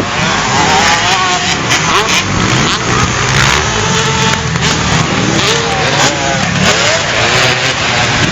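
Motocross motorcycle engines revving, their pitch rising and falling again and again over a loud, steady wash of noise.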